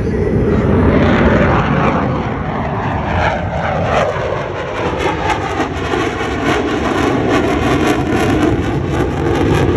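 Fighter jet flying past: loud engine noise whose pitch falls over the first few seconds, then a rapid pulsing flutter.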